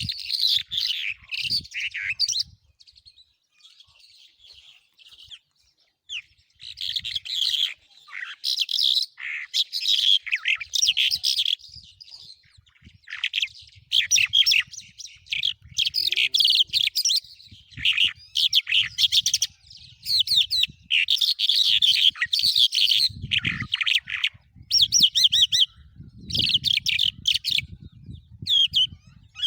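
Songbirds of the kind called jal singing in fast, twittering phrases of a second or two, separated by short breaks, with a quieter spell a few seconds in.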